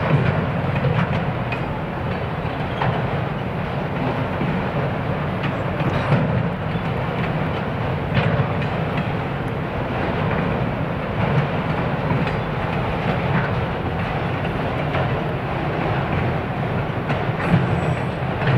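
Train cars rolling past, a steady rumble with the wheels clacking over rail joints at uneven intervals.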